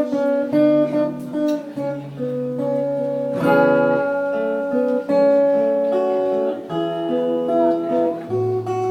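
Acoustic guitar played solo, picking a melody over changing bass notes with some strummed chords.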